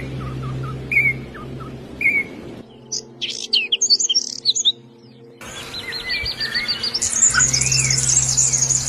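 Small songbirds chirping. It starts with single chirps about once a second, then rapid high twittering, and near the end dense overlapping chatter and trills. The background changes abruptly twice, as in cuts between separate recordings.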